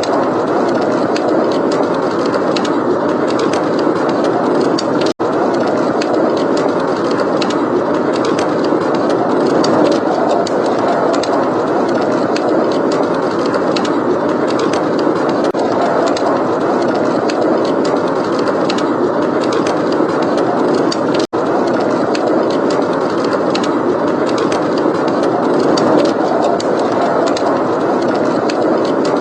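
Steady blizzard wind noise with a wood fire crackling over it in small, sharp pops. The sound cuts out for an instant twice, about five seconds in and again about twenty-one seconds in.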